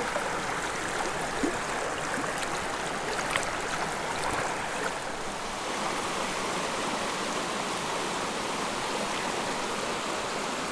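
Small mountain creek running steadily over rocks, a constant rush of water, with a few faint brief taps in the first half.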